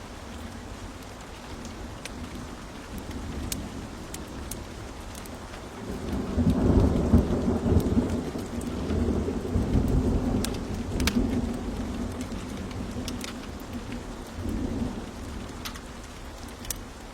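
Steady rain with the sharp crackles and pops of a wood fire; about six seconds in a roll of thunder rumbles up and slowly dies away, with a smaller swell later.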